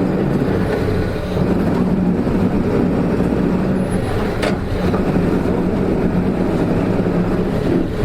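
Hino Rainbow RM (KK-RM252GSN) bus engine running steadily, heard from inside the bus, with the abnormal engine note that marks this vehicle. A single sharp click sounds about halfway through.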